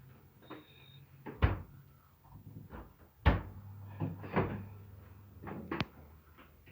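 Knocks and clunks of a refrigerator door and its parts being handled, with two loud thumps and lighter clatter between them. A high repeating beep stops about a second in, over a steady low hum.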